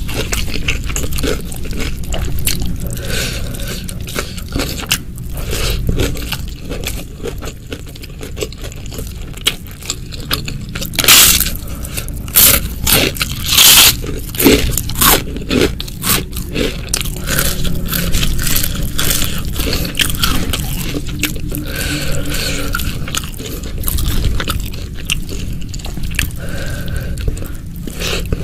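Close-miked eating: steady chewing with scraping sounds, and a run of loud, crisp crunching bites about eleven to sixteen seconds in.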